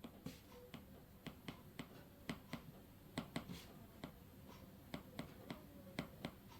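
Faint, irregular light taps and clicks, about three a second.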